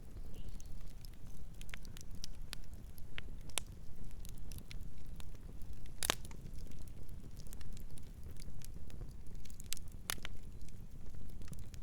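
Campfire burning with irregular crackles and sharp pops over a steady low rumble of the flames, the loudest pops about six and ten seconds in.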